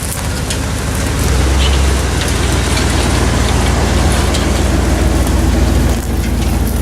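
A vehicle engine running steadily, getting louder about a second in as it takes load, with a scatter of crackles and snaps over it.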